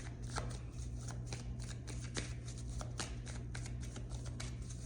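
A tarot deck being shuffled and handled, a quick irregular run of soft papery clicks and riffles, over a steady low hum.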